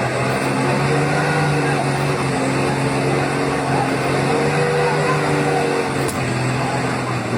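A heavy truck's engine running hard at high revs, its pitch sagging and recovering slightly as it works under load, with a single sharp knock about six seconds in.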